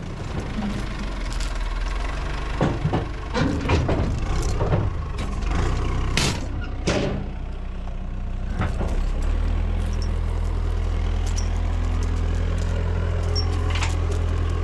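A backhoe's diesel engine running, with several sharp metal clanks and knocks during roughly the first seven seconds. From about nine seconds in the engine note holds steady and a little louder.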